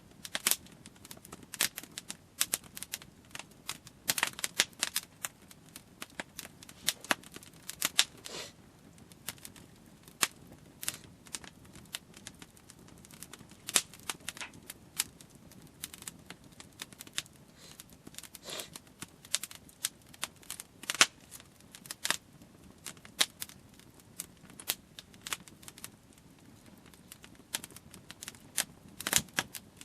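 Wood campfire crackling: burning wood snaps and pops at irregular intervals, over the low, steady rush of the flames.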